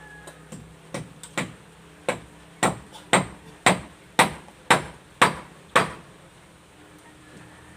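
A hammer driving a nail into wood: about a dozen blows at a steady pace of roughly two a second, getting louder, then stopping about six seconds in.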